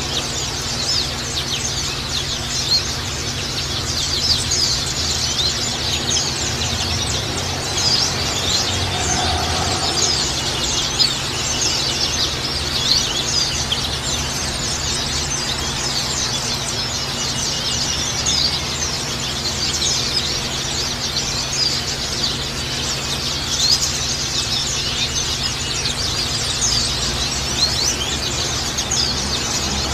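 A flock of white-eyes (pleci) twittering together, a dense, unbroken chatter of quick high chirps and short trills from many birds at once.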